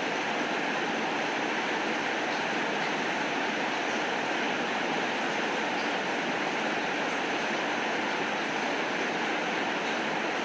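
Steady rain falling: an even, unbroken hiss with a few faint ticks.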